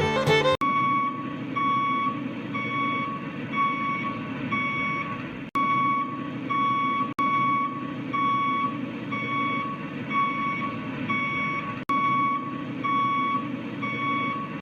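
Truck reversing alarm beeping in an even, steady rhythm, about one and a half beeps a second, over a low engine rumble.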